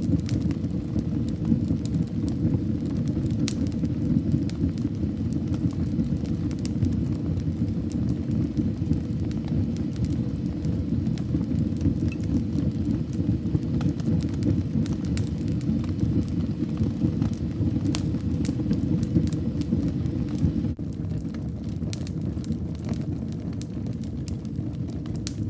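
Wood fire burning in a fireplace: a steady low rumble of flames with frequent scattered crackles and pops. About 21 s in, the sound drops a little quieter and carries on.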